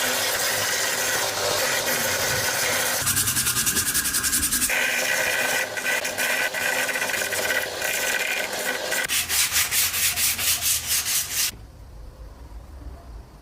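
Sanding on the old pickaxe: a loud, steady scrubbing with two stretches of fast, even strokes. It cuts off suddenly near the end, and a faint low rumble remains.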